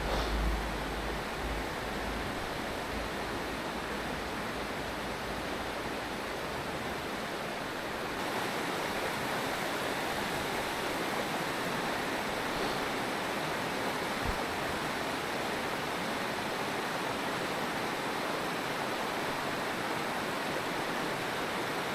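Mountain stream water rushing steadily over rocks, with a low rumble in the first second or two.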